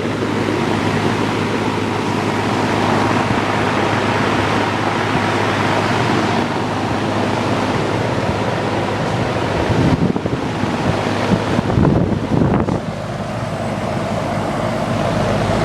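A 1982 GE Executive 2-ton central air conditioner's outdoor condensing unit running and cooling: the steady rush of the condenser fan over a low compressor hum. A few low rumbles come through about ten to thirteen seconds in.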